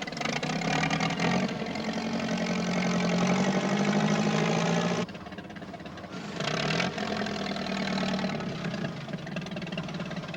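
Engine of a log-lifting machine running under load, its pitch wavering as it works. The sound drops abruptly to a lower level about five seconds in and swells again about a second later.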